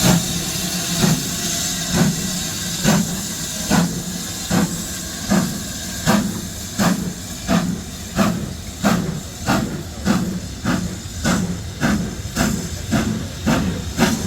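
BR Standard Class 7 steam locomotive 70000 Britannia pulling away: the two-cylinder Pacific's exhaust beats, about one a second at first and quickening to nearly two a second as it gathers speed, over a steady hiss of steam.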